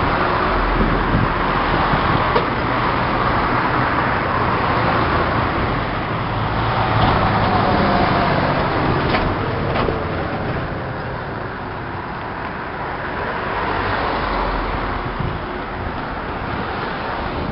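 Steady rumble of a JR 415 series 1500 electric train running slowly past below, blended with general traffic noise, swelling and easing gently without clear breaks.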